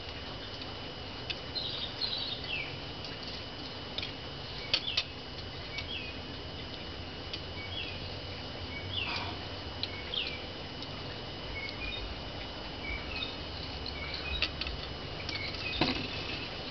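Scattered short high chirps over a steady high whine, with a few sharp clicks from pliers working fine jewellery wire: two close together about five seconds in and one near the end.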